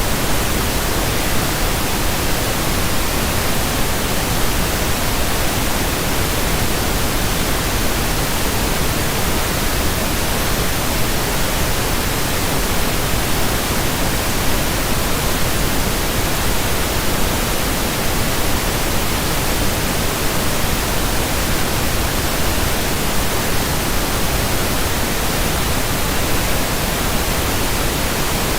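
Steady pink noise: an even hiss across the whole range, unchanging throughout.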